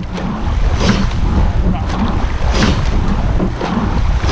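Racing rowing shell under way: wind rumbling on the microphone, with a rhythmic swish and clunk from the oars about every 1.7 seconds, once per stroke.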